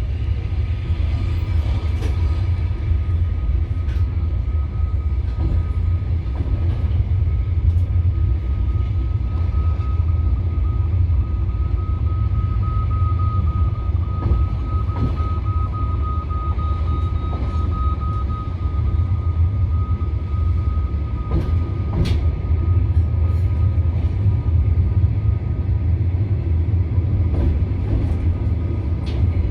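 Passenger train carriage heard from inside while running: a steady low rumble with a thin, steady whine that is strongest in the middle, and a few scattered clicks.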